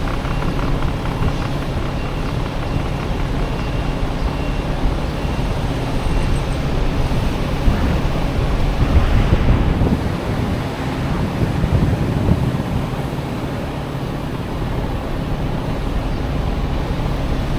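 Honda Motocompo scooter with a swapped-in Honda Dio engine running steadily under way, mixed with road and traffic noise. It gets louder for a moment about nine seconds in.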